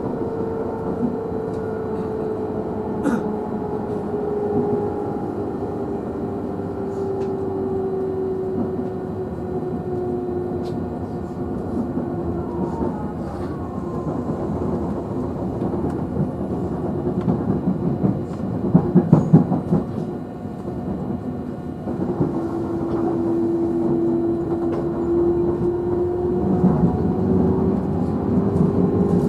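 JR 311 series electric train's traction motors humming from inside the motor car. The motor tone slowly falls in pitch, then rises again near the end as the train's speed drops and picks up. Under it is steady wheel-and-rail running noise, with louder rattling bursts over rail joints, the loudest about two thirds of the way in.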